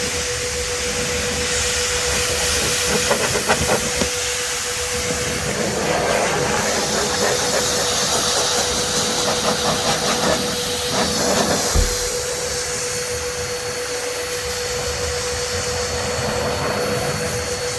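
Adam's Air Cannon warm-air car dryer running, blasting a steady rush of air with a constant motor whine underneath, blowing rinse water off a car's paint. The rush swells and roughens in the middle as the nozzle moves, with a brief low bump about twelve seconds in.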